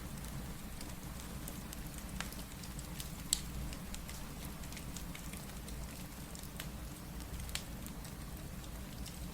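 Crackling wood fire with sharp pops and snaps scattered through it, the loudest about three seconds in, over a steady hiss of rain and a low rumble.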